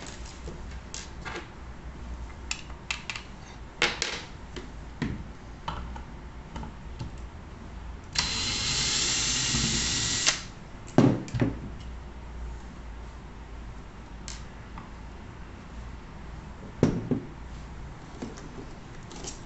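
Small clicks and knocks of hands and tools working on the plastic housing of a Nokta Makro Simplex+ metal detector being taken apart. About eight seconds in there is a steady two-second whirring hiss, like a small power screwdriver or a spray. It is followed by a couple of loud knocks, and there is another knock near the end.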